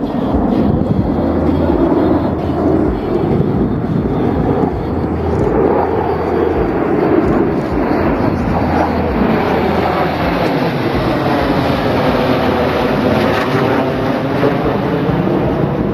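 Jet engine noise from a formation of Russian Knights Su-27 fighters flying past. It is loud and steady throughout, and in the second half a sweeping tone rises and falls as the jets pass.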